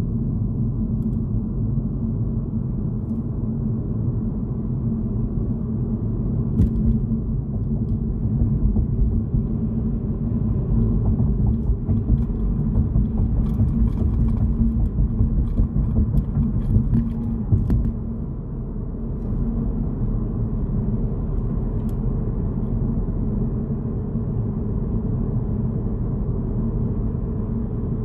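Steady low rumble of car road and engine noise heard inside the cabin while driving.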